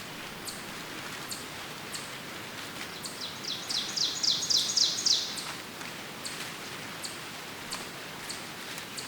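Songbird in woodland: a fast trill of about ten quick, evenly repeated high notes lasting about two seconds, a few seconds in. Scattered short high chirps from other birds and a steady rustling hiss of the forest fill the rest.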